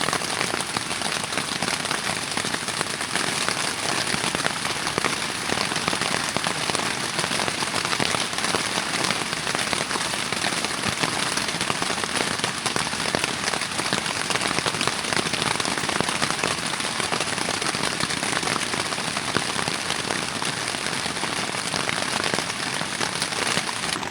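Rain falling steadily, a dense patter of drops hitting surfaces without a break.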